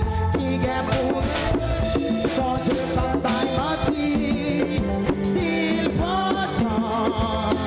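Live church worship band music with a drum kit keeping a steady beat under pitched melody lines.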